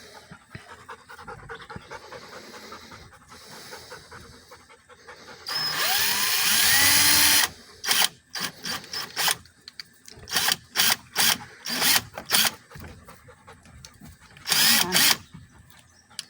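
Power drill driving screws: one run of about two seconds with the motor speed rising and falling, then a string of short trigger bursts, and another short run near the end.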